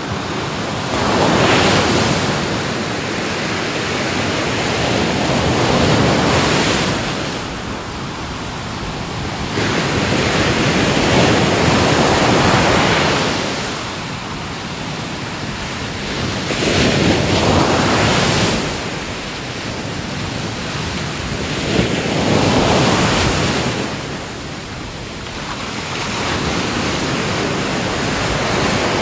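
Ocean waves breaking and washing in, a surge of surf swelling and fading about every five seconds.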